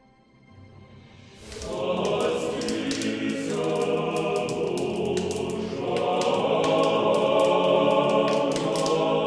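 Background music with choir singing. It comes in about a second and a half in and runs on with sustained voices and many sharp high strikes over them.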